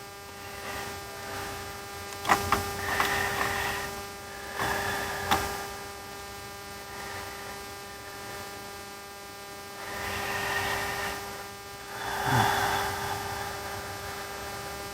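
Steady electrical mains hum, with a few sharp clicks and some brief scratchy noises over it.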